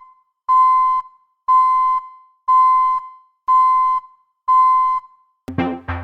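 Electronic beeps: a steady high tone sounding five times, about once a second, each beep about half a second long. Music with drums comes in near the end.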